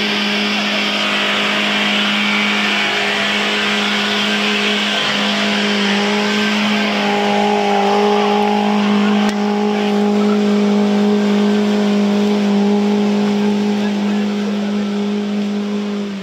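Off-road 4x4's engine held at high, steady revs, one unchanging drone with a steady hiss above it.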